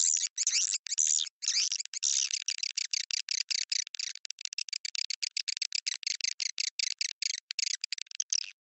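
Swiftlet lure call recording: a dense, rapid run of short, high twittering chirps of edible-nest swiftlets, several a second, played to attract swiftlets to a bird house.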